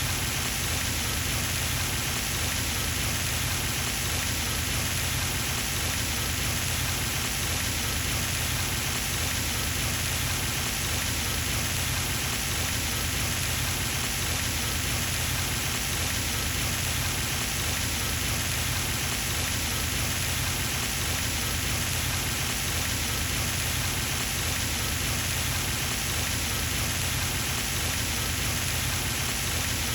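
Pond fountain running: a steady, unbroken splashing of falling water.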